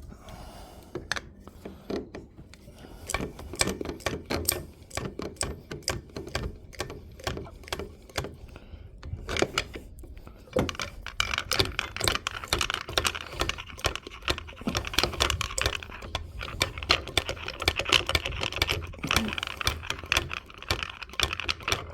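Hand grease gun being pumped, a rapid irregular run of clicks that gets busier about halfway through, as grease is forced down into a bearing housing.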